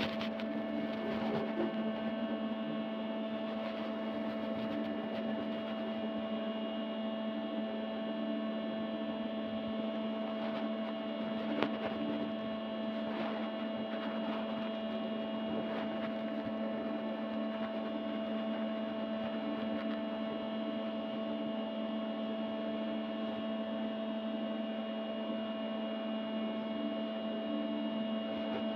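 A steady, unchanging hum made of several fixed tones, with a few faint ticks about ten to sixteen seconds in.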